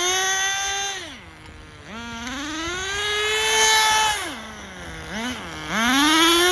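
Tamiya TGS-R nitro RC car's small glow engine revving up to a high whine and falling back to idle, three times, with a quick blip just before the last rise. It is running on the rich side, trailing smoke rather than running lean.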